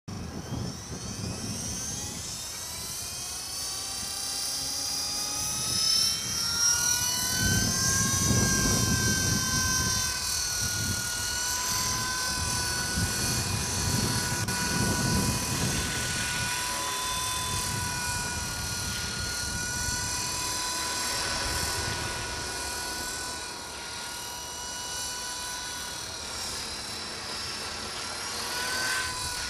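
T-Rex 450 electric model helicopter running: motor and gear whine with rotor noise, rising in pitch over the first several seconds as it spools up, then holding a fairly steady whine that wavers slightly in flight. Gusts of low rumble come and go in the middle.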